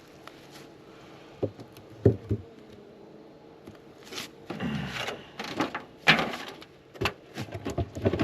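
Wooden beehive boxes and lid knocking and scraping as the hive is closed up. There are a few separate sharp knocks, then a busier run of knocks and scrapes in the second half.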